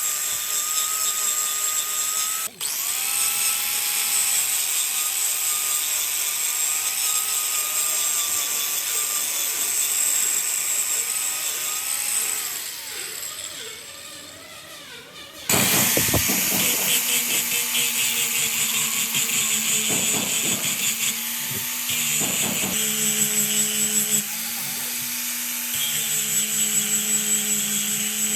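Power tool running on wood, a motor whine over cutting noise. About halfway through it winds down with falling pitch, then loud machine sound with a different whine starts abruptly and runs unevenly to the end.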